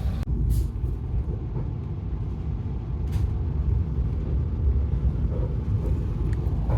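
Steady low rumble of a moving train heard from inside the coach, with a couple of faint clicks.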